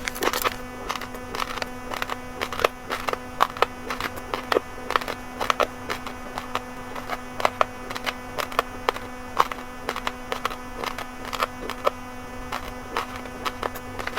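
Close-up crunching of uncooked red and white rice grains being chewed, a dense run of sharp, irregular cracks and clicks, with a steady low hum underneath.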